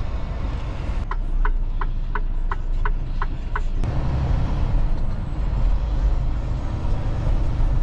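Inside a semi-truck cab, the engine and road rumble run steadily while the turn-signal indicator ticks eight times, about three a second, starting about a second in. Near the four-second mark the engine's low rumble grows louder.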